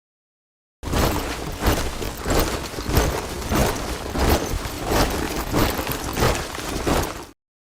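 A group of soldiers marching in step in boots, a regular beat of footfalls about every two-thirds of a second. It starts abruptly about a second in and cuts off abruptly near the end, with dead silence on either side.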